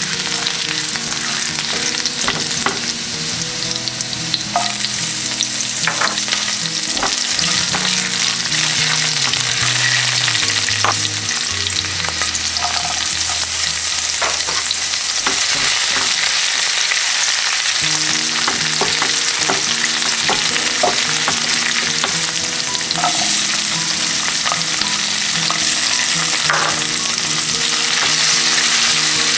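Chopped garlic, green chillies and spring onion sizzling in hot oil in a nonstick frying pan, with a silicone spatula stirring and scraping through it. Scattered small pops and ticks come from the spitting oil.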